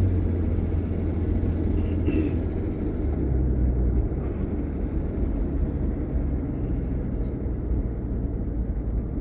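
Steady low engine and road rumble heard from inside a moving vehicle driving on a city street, the engine note shifting slightly about three seconds in.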